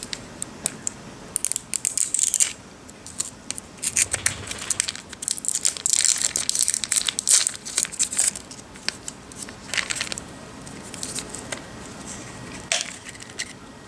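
Crinkling and rustling of a plastic snack wrapper being handled and opened by hand. Irregular crackles and short bursts come in two busier stretches, one early and a longer one in the middle, then thin out.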